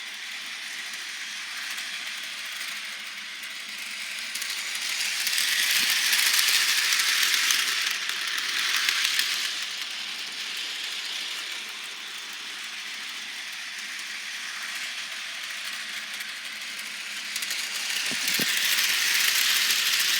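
HO-scale Bachmann model train, the Edward locomotive hauling a string of Troublesome Truck wagons, running along the track with a steady light rattle of wheels and mechanism. It grows louder twice, about five seconds in and again near the end, as the train comes close.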